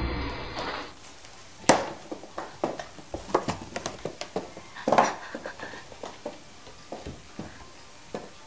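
An inkjet printer running, cut off within the first second. Then irregular knocks and taps, the loudest about a second and a half in and again near the middle, as a cat with a cardboard box stuck on its head scrambles and bumps across a hard floor.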